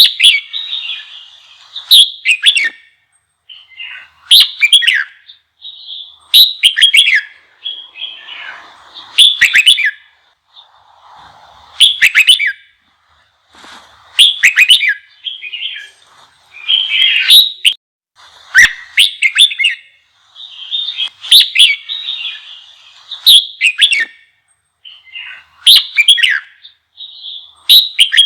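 Red-whiskered bulbul singing in short, loud, bubbling phrases repeated about every two seconds: the excited, fiery song used to stir up other bulbuls.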